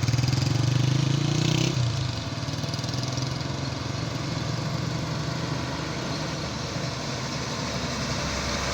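Heavy truck's engine running, louder for about the first two seconds, then easing off to a steadier, lower note and building again near the end.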